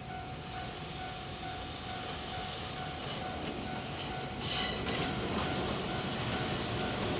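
Electric train running with a steady low rumble, and a brief high-pitched sound about four and a half seconds in.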